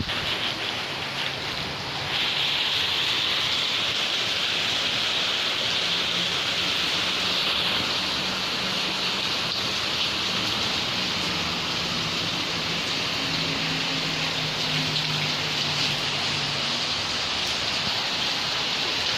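Heavy rain pouring down, a steady hiss that gets louder about two seconds in.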